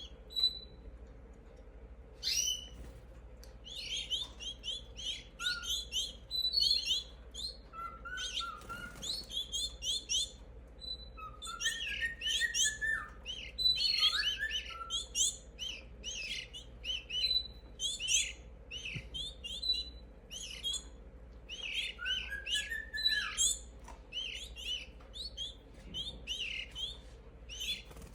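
Young canaries chirping: a steady stream of short, high chirps, with now and then a lower, curved squeaky call.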